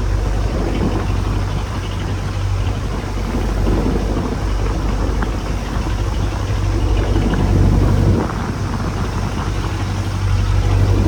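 Small fishing boat's engine running at a steady pitch, under a rough rushing noise of wind and waves.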